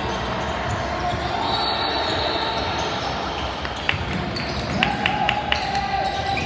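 Basketball game sounds: a basketball bouncing on the court over a steady background of voices, with a quick run of four sharp strikes about five seconds in.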